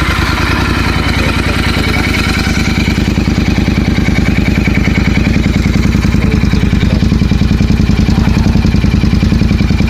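Royal Enfield Interceptor 650's parallel-twin engine idling through an aftermarket Gursewak exhaust, a steady, even beat of exhaust pulses. It cuts in abruptly at full level.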